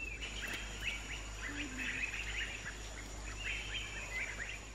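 Birds calling in quick runs of short, high chirps, in two bouts with a brief pause between, over a thin steady high-pitched whine.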